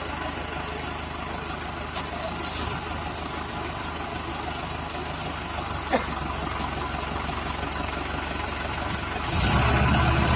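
Diesel tractor engine idling steadily, then running up louder about nine seconds in.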